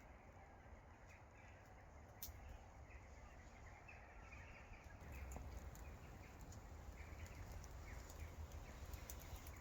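Near silence: faint outdoor ambience with a low rumble and scattered faint bird calls.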